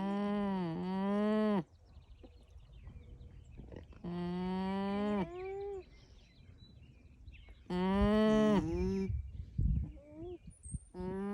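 Alpacas humming: three loud, drawn-out pitched hums of about a second and a half each, a few seconds apart, each dipping in pitch partway through. Fainter, shorter rising hums fill the gaps, and a fourth loud hum starts at the very end.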